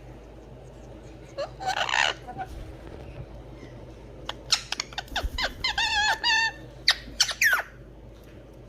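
Pet parrots calling: a burst of squawks about two seconds in, then a run of short chirps, sliding whistles and wavering calls from about four to seven and a half seconds in.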